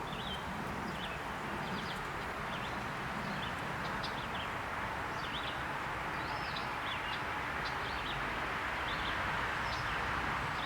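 Small birds chirping again and again over a steady background hiss.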